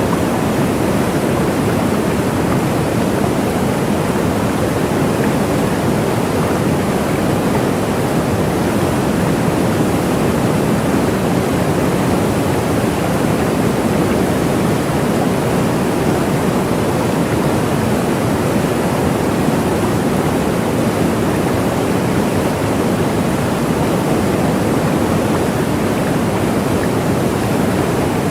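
Waterfall: a steady, even rush of falling water, strongest in its low part and unchanging throughout.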